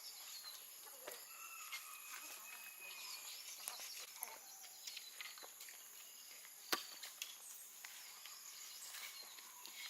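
Faint outdoor nature ambience: steady high insect-like tones, scattered whistled bird calls and small ticks, and one sharp click a little before seven seconds in.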